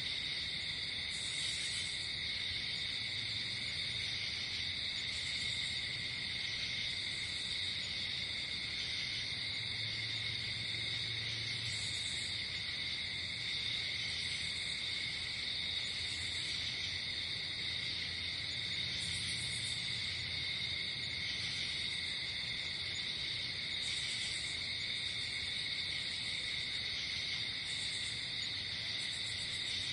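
Night chorus of crickets and other insects: a continuous, even trilling at several pitches, with short higher chirps coming in every few seconds.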